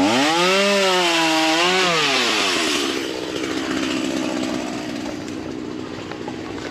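Ryobi 37cc two-stroke gas chainsaw revved hard: the engine pitch jumps up at once, holds high for about a second and a half, then drops back. It keeps running at a lower, rougher pitch that slowly fades.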